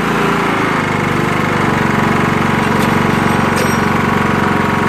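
Troy-Bilt Bronco riding mower's engine running steadily and smoothly just after it started, now that its gummed-up carburetor has been cleaned and the stuck float freed. The pitch settles a little lower about half a second in.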